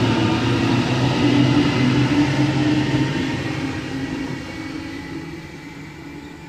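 Double-deck electric suburban trains running past on the tracks: a steady rumble with a motor hum, fading away over the last few seconds as they move off.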